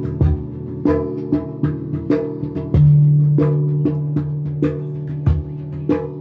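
Ethnic percussion ensemble with handpans (hang drums): pitched metal notes struck in a quick rhythm, each ringing on, mixed with drum hits. A loud low note starts about three seconds in and rings on.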